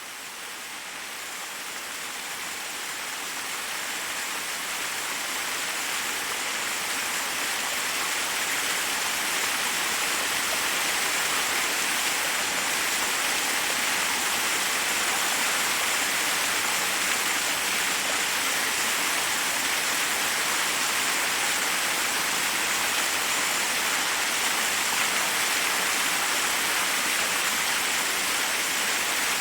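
Forest waterfall: water rushing steadily over rocks, fading in over the first several seconds and then holding at an even level.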